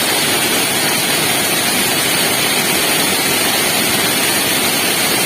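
Waterfall: a loud, steady rush of falling water with no change in level.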